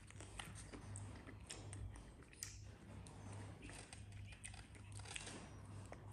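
Faint chewing and small mouth clicks of someone eating a soft fresh spring roll, over a low steady hum.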